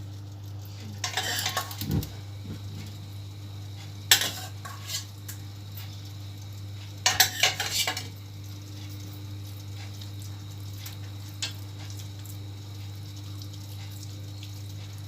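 A metal spoon clinking and scraping against a pot and a baking dish as ragù is spooned onto the lasagna, in three short bursts of clatter a few seconds apart.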